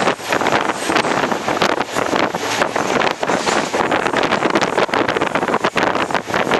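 Wind rushing over the microphone of a passenger train running at speed, heard from on board, mixed with a dense, irregular rattling and clatter of the coaches and wheels.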